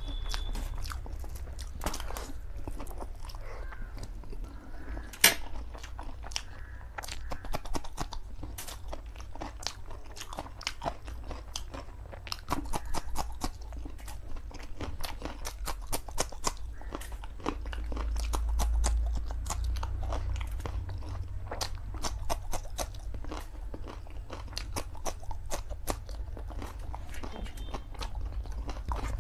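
Close-miked chewing of a big mouthful of saucy Samyang black bean noodles: wet mouth clicks and smacking, continuous, with one sharp loud click about five seconds in.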